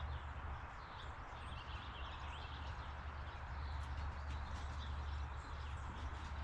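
Small birds chirping faintly and repeatedly, with a few light clicks, over a steady low hum and rushing outdoor background noise.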